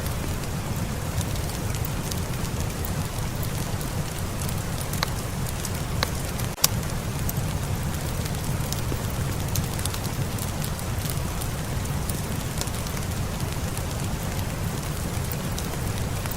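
Steady rain mixed with a crackling fire: scattered sharp pops over the even hiss of the rain, with one louder snap about six and a half seconds in.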